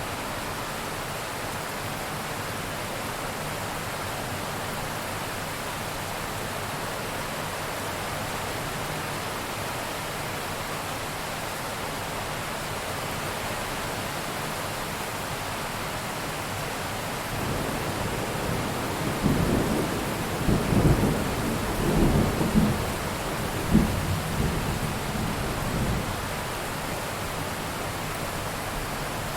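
Steady heavy rain falling, with a roll of thunder that builds about two-thirds of the way through, cracks and rumbles several times, then dies away.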